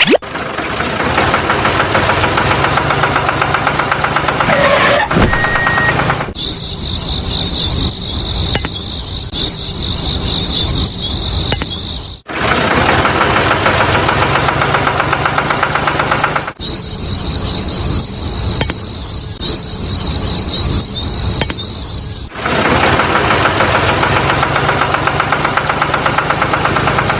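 Tractor engine running with a rapid, even chug, broken off abruptly twice by stretches of high-pitched fluttering shrill whine lasting about six seconds each.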